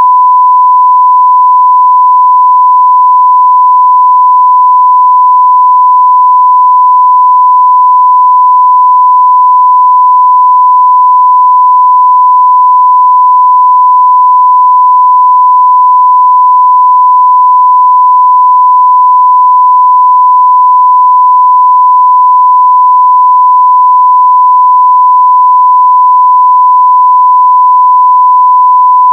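Continuous 1 kHz sine-wave test tone at full scale (0 dBFS): a single steady pure pitch that never varies.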